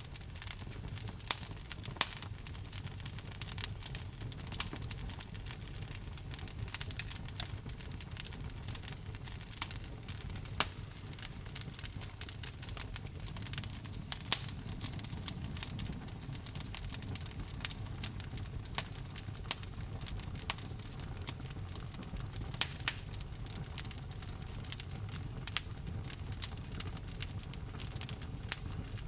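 Logs burning in a fireplace: a steady run of sharp crackles and pops, with a number of louder snaps, over a steady low rumble.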